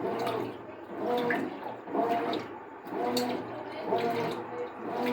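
Consul CWN13AB washing machine in its rinse cycle: water churning and sloshing in rhythmic strokes about once a second, each stroke carrying a faint motor whine.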